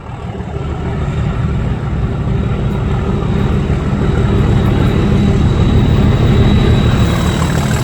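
English Electric Class 37 diesel locomotive approaching and passing under power, its engine giving a deep steady throb that grows louder over the first two seconds. A thin, steady high whistle runs above it.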